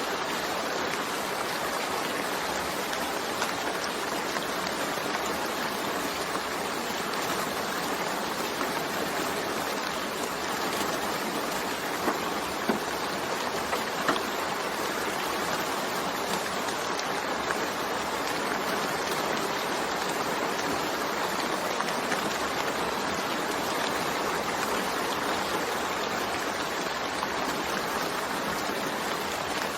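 Steady rain falling, an even hiss with a few sharper drop ticks near the middle.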